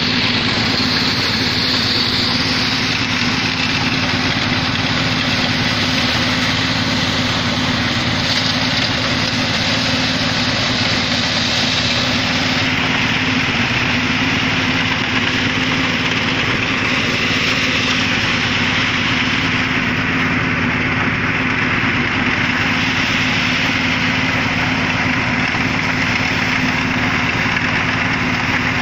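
Engine of a rice harvesting machine running steadily at constant speed, with a dense mechanical hiss over it.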